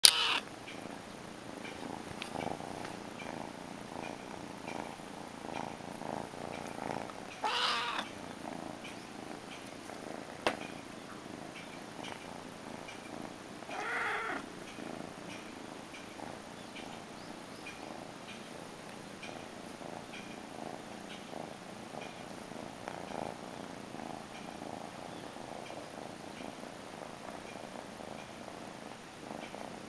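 Kitten purring steadily, with two short meows, one at about a quarter of the way in and one near the middle, and a single sharp click about ten seconds in.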